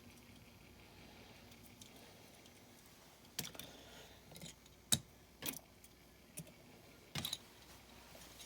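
A handful of light clicks and clinks of small diecast toy cars being handled and set down, about six over four seconds starting a few seconds in, the sharpest near the middle.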